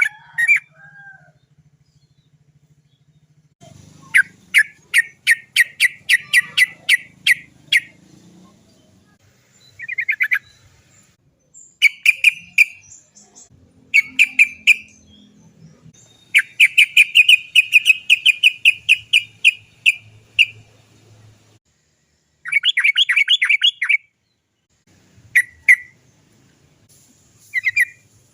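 Yellow-vented bulbul (trucukan) singing its chattering 'cok cok cok' phrases: runs of rapid repeated notes, about five a second, with one rolling on for about four seconds, separated by short pauses.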